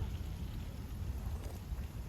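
Low, uneven rumble of background noise with no distinct event.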